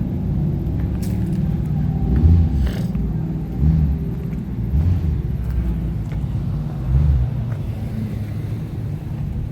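A car engine running at idle with a steady low rumble, swelling a little louder a few times.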